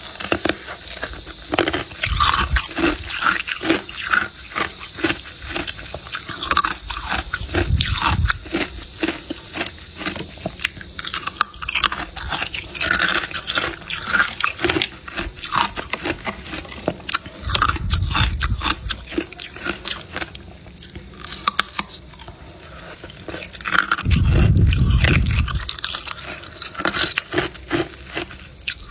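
Hard clear ice being bitten and chewed close to the microphone: a dense run of sharp, crisp crunches and cracks, broken by a few deeper, duller bursts, the longest and loudest about 24 seconds in.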